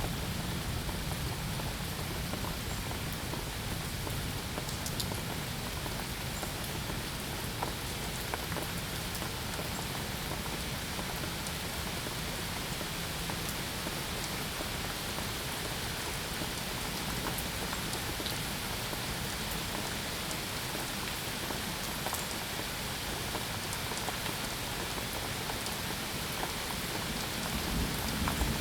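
Steady rain with individual drops pattering on a surface. A low rumble of thunder swells near the end.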